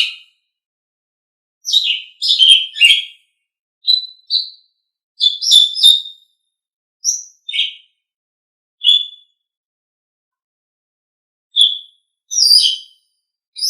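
Asian pied starling (jalak suren) singing: short phrases of clear whistles mixed with harsh, scratchy chattering notes, about ten bursts with gaps of up to two seconds between them.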